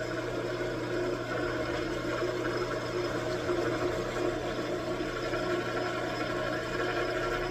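Metal lathe running steadily while turning a stud, a constant machine hum with a few steady tones.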